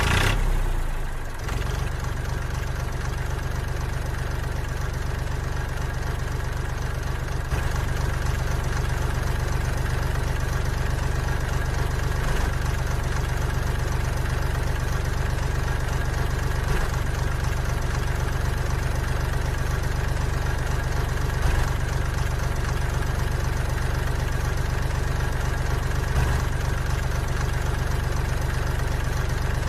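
An engine or motor running steadily at idle with a low, even hum, a little louder from about seven seconds in.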